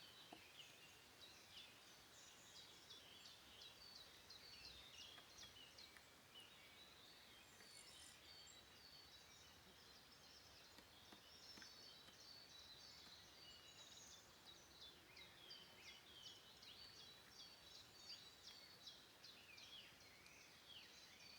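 Faint woodland birdsong: several small birds chirping and singing in many short high notes and trills, over a soft steady hiss.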